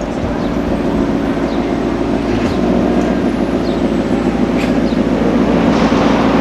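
A car engine and exhaust running steadily, growing gradually louder.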